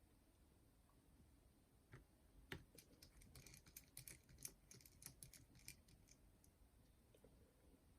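Faint clicks and light scrapes of small metal parts being handled, washers being fitted onto a pulley shaft, with one sharper click about two and a half seconds in and a cluster of quick ticks after it.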